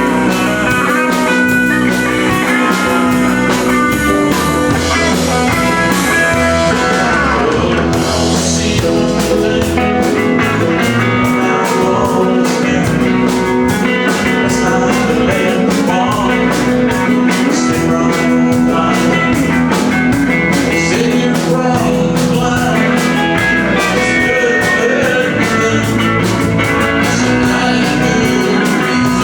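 A live country-rock band playing, with guitar over a steady drum beat.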